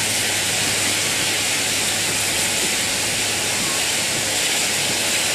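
Passenger train of coaches passing along a platform: a loud, steady rushing noise with a low hum underneath.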